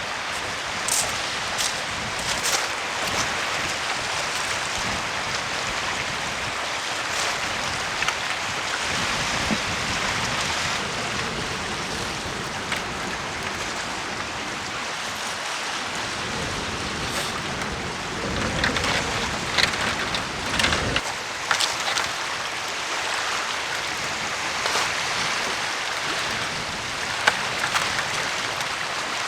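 Steady rushing noise of rain, with scattered clicks and rustles on top, busier for a few seconds about two-thirds of the way through.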